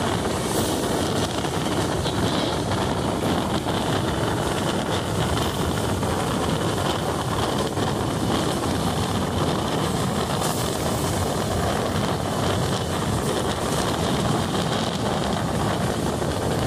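Steady running noise of a moving train, a constant rumble of wheels on the track mixed with wind, holding an even level with no distinct knocks or horn.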